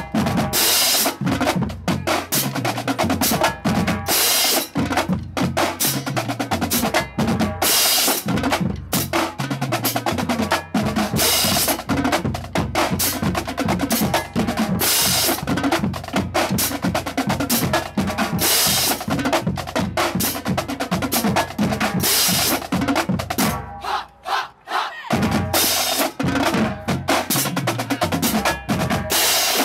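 Marching drumline playing a fast percussion feature: rapid snare drum rolls and strokes over bass drums, with cymbal crashes every few seconds. The playing breaks off briefly about 24 seconds in, then starts again.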